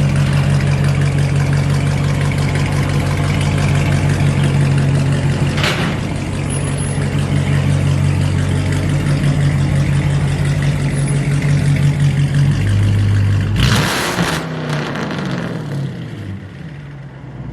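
Hemi V8 engine with a modified exhaust running steadily at raised revs. About twelve seconds in the revs drop, then there is a brief loud burst and the revs fall away.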